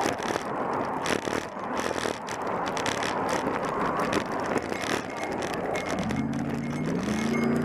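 Rushing road and wind noise from a moving vehicle, with frequent small knocks. About six seconds in, a motor vehicle's engine comes in and rises in pitch as it accelerates.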